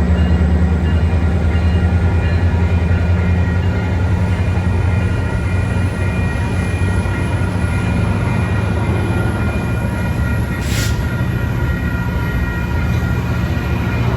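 Train rolling past, a loud steady sound with a low hum, and one sharp click about eleven seconds in.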